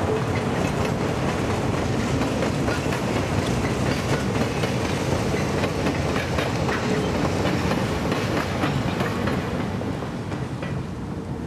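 Freight cars and a caboose rolling past on jointed track, their wheels clicking over the rail joints. The sound fades near the end as the train moves away.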